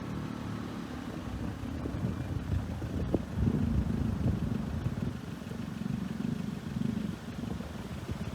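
Motor vehicle engine running with a low, uneven rumble, typical of road traffic idling at a closed level crossing.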